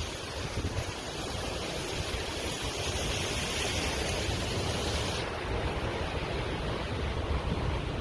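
Hurricane wind and surf: a steady rush of noise with uneven low rumbling, thinning a little at the top about five seconds in.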